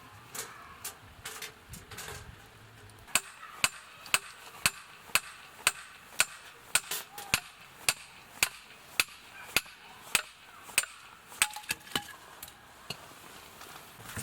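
A hammer striking metal in a steady rhythm, about two sharp blows a second with a slight ring, starting about three seconds in and stopping near the end.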